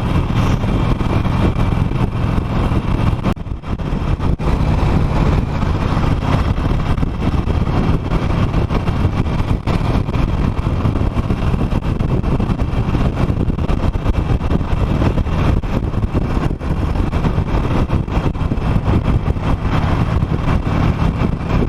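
Harley-Davidson Nightster's V-twin engine running steadily while cruising at road speed, with wind rushing over the microphone, with a brief dip in loudness about three and a half seconds in.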